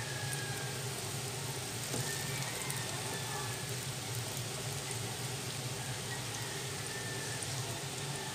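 Eggplant omelette sizzling steadily in cooking oil in a frying pan over low heat.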